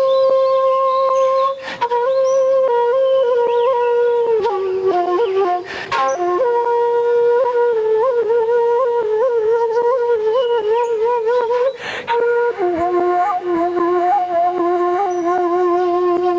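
Shakuhachi bamboo flute playing long held notes with a wavering, ornamented pitch, in phrases broken by short breaks. The melody steps down to lower notes twice.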